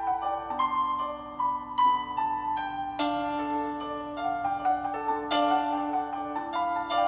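Background piano music: a slow melody of single struck notes over held bass notes.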